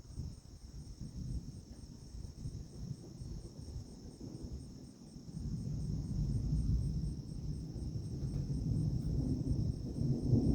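Insects chirping steadily in a high, evenly pulsing chorus. Under it is an uneven low rumble that grows louder about halfway through.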